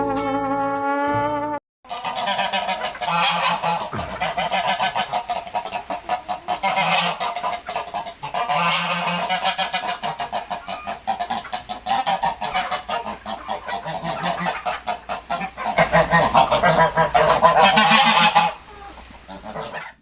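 A flock of geese honking, many calls overlapping without a break, loudest near the end before they die away. The last notes of a song with brass play for the first second and a half.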